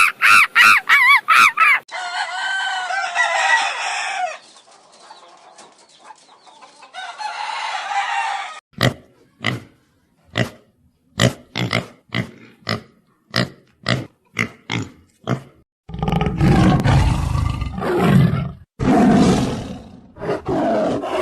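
A run of animal calls: chickens crowing and clucking, with a dozen short evenly spaced clucks in the middle, then loud, deep, drawn-out calls from a larger animal over the last few seconds.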